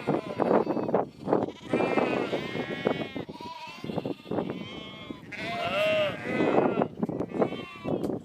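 A flock of sheep bleating, several wavering calls overlapping, with the clearest bleats about two seconds in and near six seconds.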